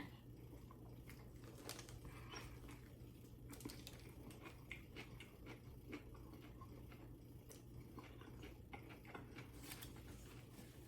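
Faint chewing of a mouthful of sandwich: scattered small clicks and wet smacks, over a low steady hum.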